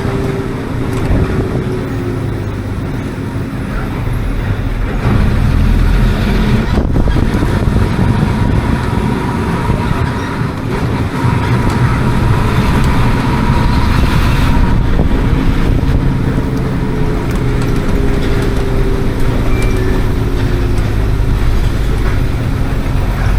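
Hino AK176 bus diesel engine running under way, heard on board, its pitch gliding as it pulls, with a steady high whine through the middle stretch. The engine gets louder about five seconds in.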